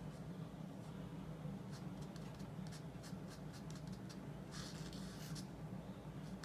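Paintbrush bristles stroking and dabbing oil paint onto gesso-coated multimedia paper: a series of short, light scratchy strokes, with one longer brushing stroke about four and a half seconds in. A steady low hum runs underneath.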